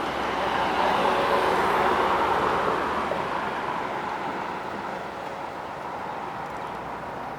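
Jet airliner's engines roaring as it passes, swelling to a peak about one to three seconds in and then slowly fading away.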